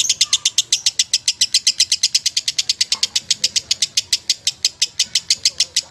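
Lovebird singing a long unbroken run of rapid, high chirps, about ten a second, evenly spaced.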